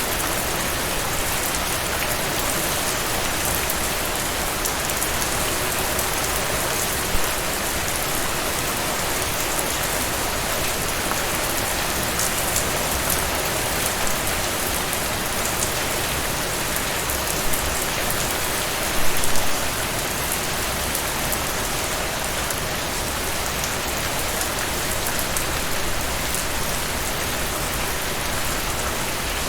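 Heavy rain falling steadily as an even hiss of drops, with a few brief louder spatters, the biggest cluster about two-thirds of the way through.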